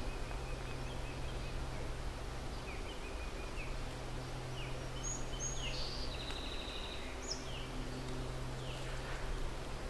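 Outdoor ambience: a steady low hum under scattered short bird chirps and whistles, busiest in the middle.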